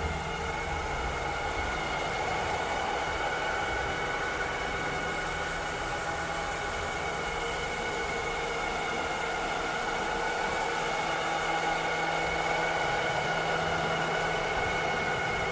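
Cleaning robot running steadily: an even motor whir with a low hum and a high thin whine held over it.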